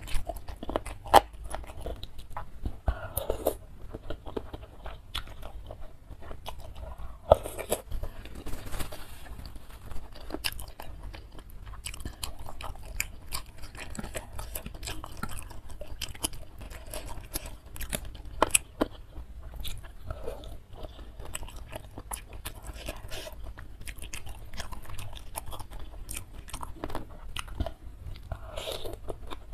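Close-miked chewing of a spicy noodle soup with meatballs, boneless chicken feet and egg, full of sharp wet mouth clicks.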